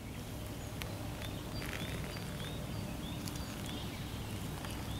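Outdoor ambience with a steady low rumble on the microphone and a bird calling a series of short high chirps, about two or three a second, from about a second and a half in.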